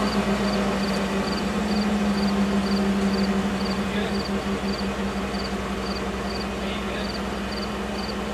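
Ford F-150's 5.0 L V8 idling steadily just after starting, its level easing down slightly over the seconds.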